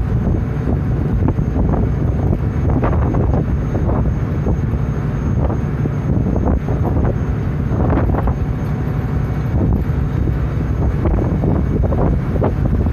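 Steady low rumble of a car ferry under way, with wind buffeting the microphone in irregular gusts.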